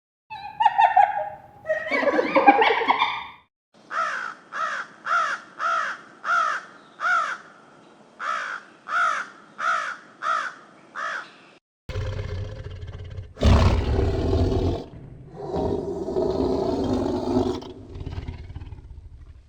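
Young farm animals calling: a few calls at the start, then a run of about a dozen short, evenly spaced calls that each rise and fall in pitch, then rougher, noisier calls with a low rumble from about twelve seconds in.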